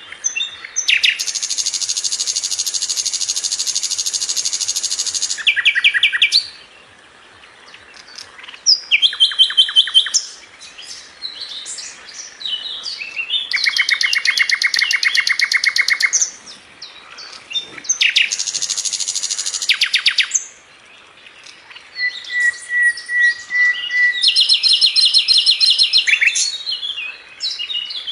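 Sikatan londo flycatcher singing energetically: bursts of very fast, tightly packed rattling trills lasting one to four seconds, alternating with jumbled short high chirps, and one thin steady whistle near the end.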